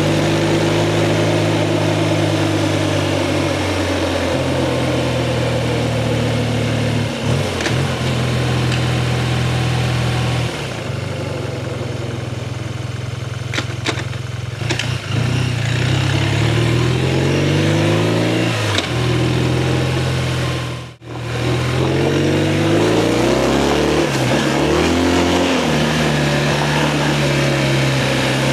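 BMW R 12 G/S motorcycle's boxer twin engine running, at first steadily, then pulling up in pitch again and again with drops between, as when accelerating through the gears. The sound cuts out briefly partway through.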